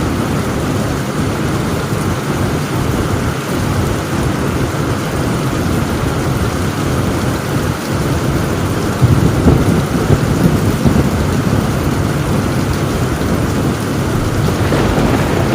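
Heavy, steady rain drumming on a tin roof, with a rumble of thunder swelling about nine seconds in and lasting a couple of seconds.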